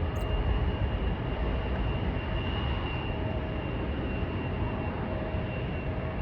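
Jet airliner engines running: a steady low rumble with a thin, high whine held through.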